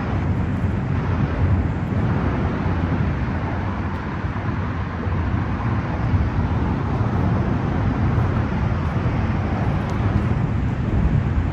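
Steady outdoor background noise: a low rumble with hiss and no distinct events.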